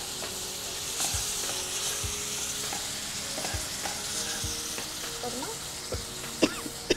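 Shallots and tamarind sizzling in hot oil in a nonstick kadai, stirred with a metal ladle: a steady frying hiss with about five soft knocks of the ladle against the pan.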